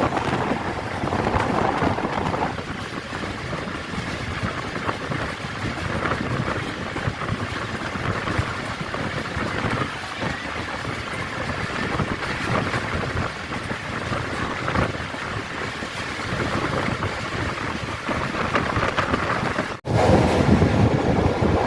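Passenger train running, a steady rumble and rattle of the moving coaches. Near the end the sound cuts out for an instant and comes back louder.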